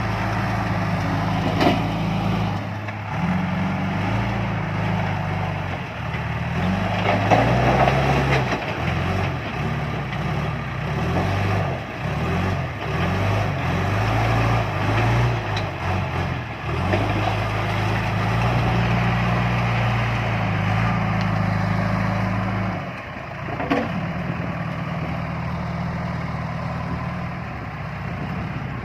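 John Deere 310E backhoe loader's diesel engine running under working load, its speed rising and falling as the hydraulics are worked, with a few sharp knocks.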